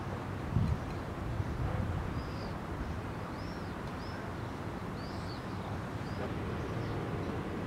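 Outdoor ambience: a steady low background rumble, with a small bird chirping repeatedly in short rising-and-falling notes from about two seconds in. A soft knock about half a second in.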